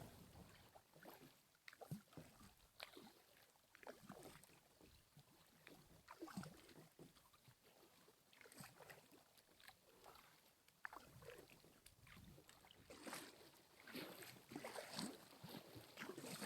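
Faint, irregular splashes and drips of water around a kayak on the move, the paddle dipping and knocking, growing a little busier near the end.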